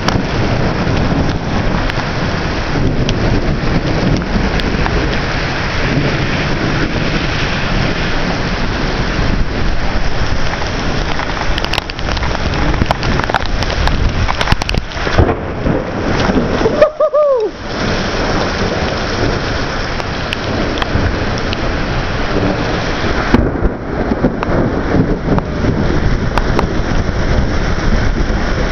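Heavy thunderstorm rain pouring down, a loud steady rush with low rumbling underneath. It cuts out briefly about seventeen seconds in, just after a short falling tone.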